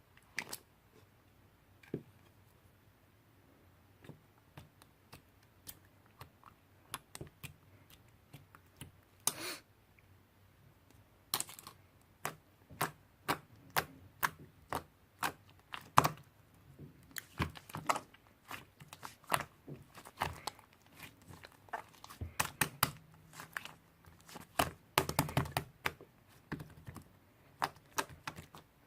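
Irregular light clicks and taps, like small objects being handled or typed on. They come only now and then at first, then turn dense and rapid from about eleven seconds in.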